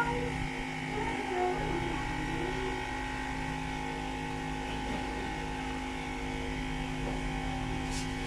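Steady electrical hum over a low background rumble, with faint gliding tones in the first few seconds and one short click near the end.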